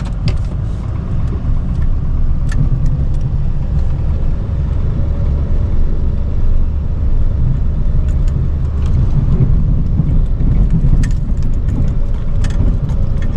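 Chevrolet K3500 Duramax V8 turbodiesel running under load while plowing snow, a steady low rumble heard from inside the cab, with a few scattered sharp clicks and knocks.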